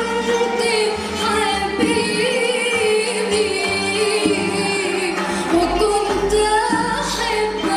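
A choir singing Arabic music with instrumental accompaniment, the voices holding long notes that slide between pitches.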